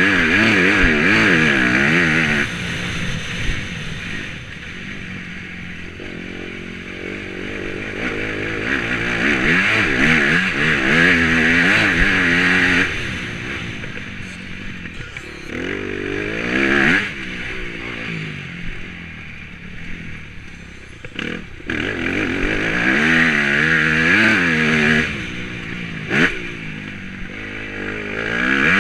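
Motocross bike engine heard close up from an onboard camera, revving up and dropping back again and again as the rider opens and closes the throttle around the track. A few sharp knocks come through in the second half.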